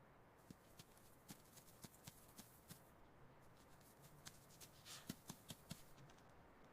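Faint mouse scratching and scurrying: scattered light clicks and scrapes, with a short rustle about five seconds in.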